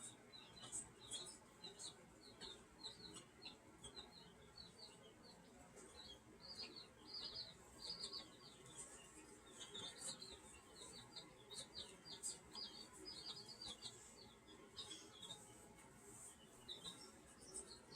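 Faint chirping of small birds: many short, high chirps in quick runs, several at once, going on throughout.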